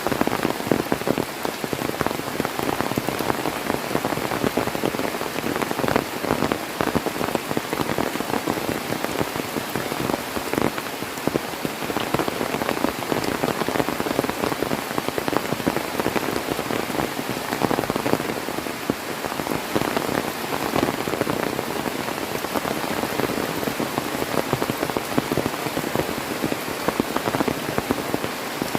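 Heavy rain falling steadily, a dense even hiss with many close drops striking surfaces.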